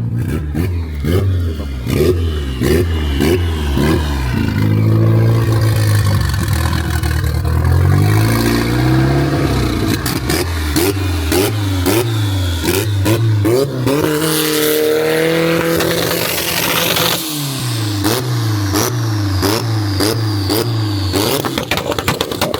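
Turbocharged car engine revved in quick repeated blips, the pitch rising and falling about twice a second, with sharp pops throughout. Around two-thirds of the way through it holds a higher rev, then drops with a rush of hiss.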